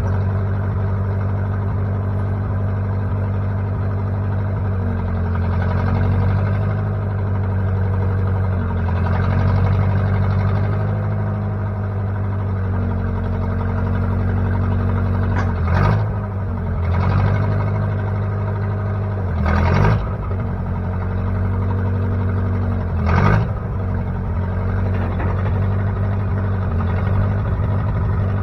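Engine of a 1960 Case 540 backhoe running steadily. A few times in the second half the engine note dips briefly as a short louder sound comes through.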